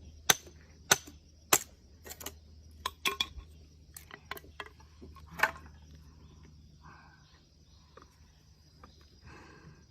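Firewood being split: sharp chopping strikes of a blade into wood, coming quickly about twice a second at first, then lighter knocks and clatters of wood with one louder strike about halfway through. Quieter after that.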